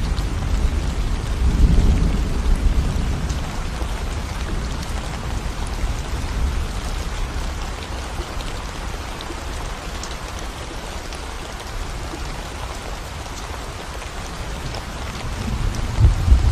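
Steady rain falling on a concrete road, an even hiss with scattered drop ticks. A low rumble swells in the first few seconds, fades, and returns near the end.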